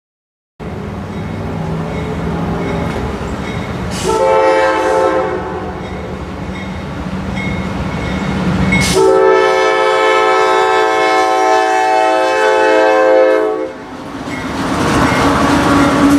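Diesel freight locomotive's air horn sounding over the low rumble of the train. There is a short blast about four seconds in, a long blast from about nine to nearly fourteen seconds, and another blast starting at the very end.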